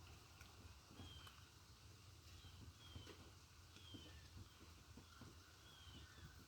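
Faint, short high chirps from a bird, about one a second, each dipping slightly in pitch, over a low steady rumble.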